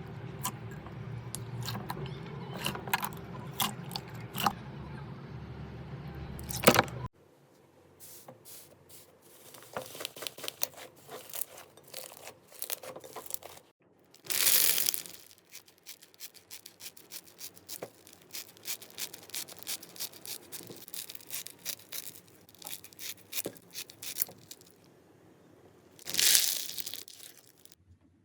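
Hands squishing and poking slime, making a dense run of small crackling clicks with a couple of longer tearing stretches. The sound changes abruptly about a quarter of the way in, to a quieter, sparser clip.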